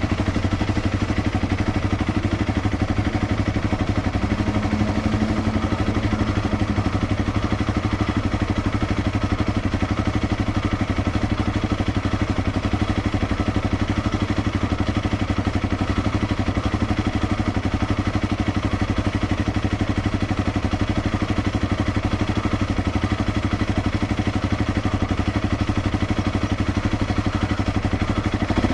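Honda CRF250L's single-cylinder four-stroke engine running steadily through an SP Tadao Power Box header and DELTA Barrel 4S silencer, with no change in pitch.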